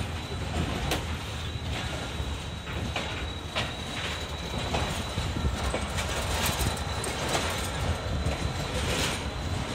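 Passenger train running on the rails: a continuous rumble with scattered, irregular clacks of wheels over the track.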